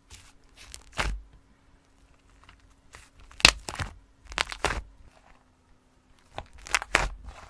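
Slime being squeezed and pressed by hand, giving bursts of crackly, popping squishes in several separate clusters, the loudest about three and a half seconds in.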